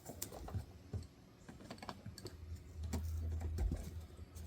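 Electrical tape being wrapped around a bundle of wires with a dowel rod: a run of small, irregular clicks and crackles, with a low hum for about a second and a half past the middle.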